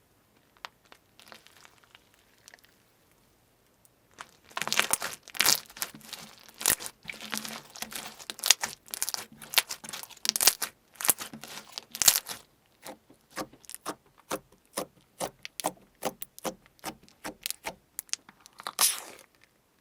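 Slime being stretched and squeezed by hand, with dense crackling and tearing sounds, then a run of separate sharp pops, about two or three a second, and a longer crackle near the end.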